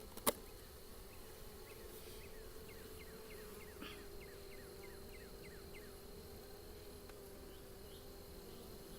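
Honeybees buzzing in a steady hum at an open hive, with one sharp click just after the start.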